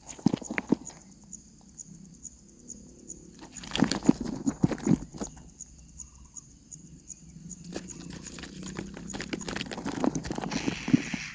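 Bursts of quick scraping and knocking in three clusters, the loudest about four seconds in, over a faint regular high ticking.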